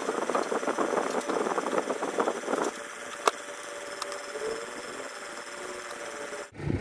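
Rapid mechanical rattling from a small mechanism for about two and a half seconds, then quieter, with a single sharp click; the sound cuts off abruptly near the end.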